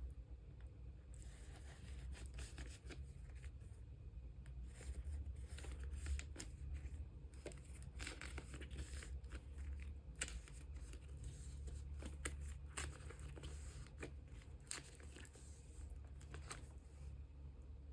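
Plastic card sleeves being handled: irregular rustling, crinkling and small clicks as photocards are slid into sleeves, over a faint steady low hum.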